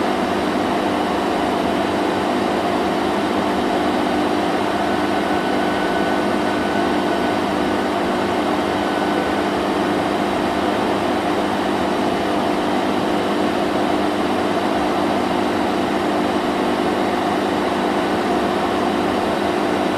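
Vacuum cleaner running steadily: a constant rushing motor noise with a low hum, unchanging throughout.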